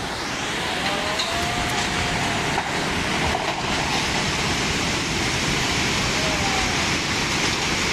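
Steady rushing noise of floodwater pouring through a city street.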